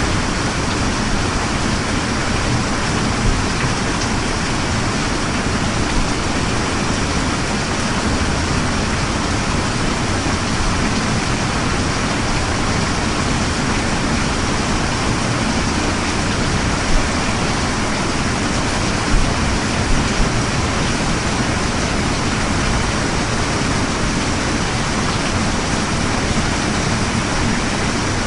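Steady rain falling, an even dense hiss, with a few brief louder spatters in the second half.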